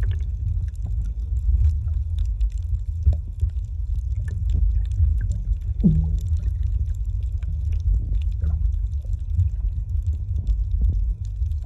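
Underwater water noise on the camera: a steady low rumble with scattered small clicks and gurgles. There is a short falling tone about six seconds in and another at the end.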